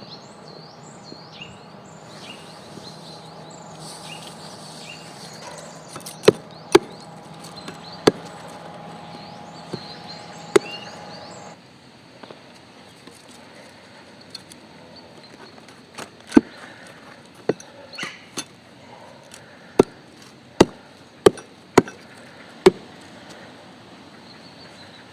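Irregular sharp knocks of wood being struck, about fifteen of them spread through the clip. A small bird calls over and over in short descending chirps during the first half.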